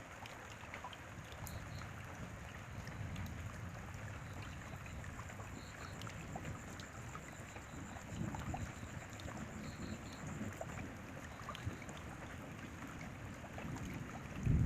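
Steady rain with scattered drops tapping, over a low background rumble; the rumble swells suddenly right at the end.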